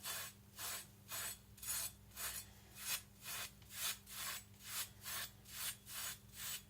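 Japanese nakiri knife being stropped very softly, its edge drawn back and forth in even rasping strokes about twice a second. These are light finishing passes meant to strip off the last trace of burr.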